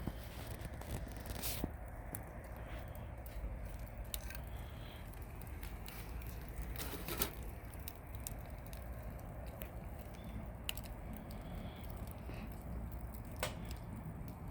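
Wood campfire crackling: scattered sharp pops over a steady low rumble, with one louder pop about seven seconds in.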